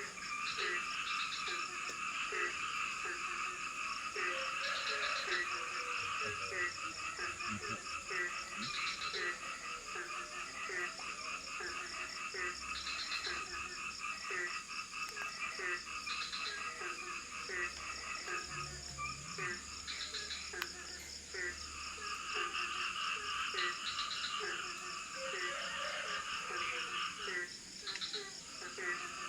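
A night chorus of frogs calling in tropical forest: a dense pulsing trill that drops out for a few seconds past the middle and then resumes, over a low croak repeated about twice a second and a steady high buzz.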